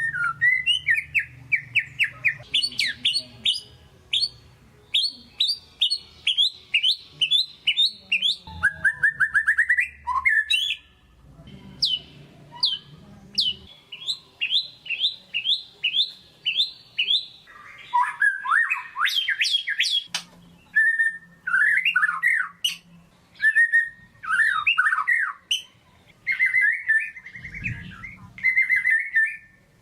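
White-rumped shama singing in varied, rapid phrases: quick runs of sharp down-slurred notes, trills and whistled notes, broken by short pauses.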